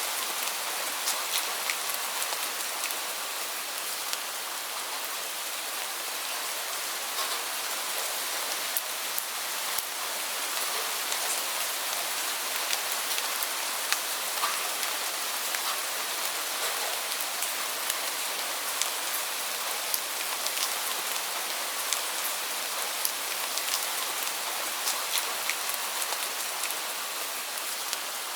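Heavy, steady rain falling, a dense even hiss with many individual drops ticking sharply on a hard surface throughout.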